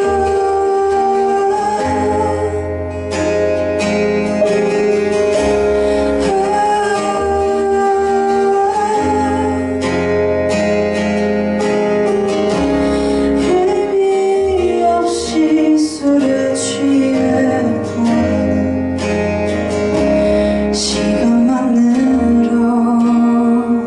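Live band music led by guitar over a steady bass line, with a woman singing.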